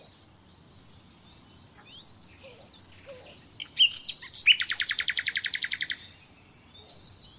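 A small bird chirping. About four and a half seconds in it gives a loud, fast trill of high repeated notes that lasts about a second and a half.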